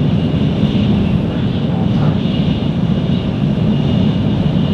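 Steady rumble of a Shinkansen bullet train running at high speed, heard inside the passenger cabin, with a thin, steady high-pitched tone over it.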